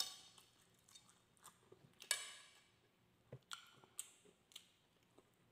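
Faint eating mouth sounds: chewing with a few soft, irregular smacks and clicks, the clearest one about two seconds in.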